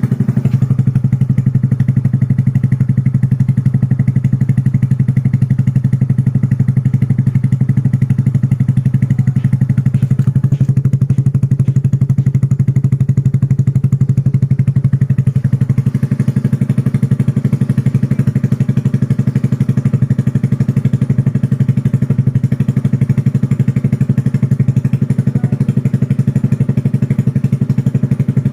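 Yamaha Fino scooter's single-cylinder engine idling steadily through an aftermarket Mahachai-style exhaust, with an even low note and no revving.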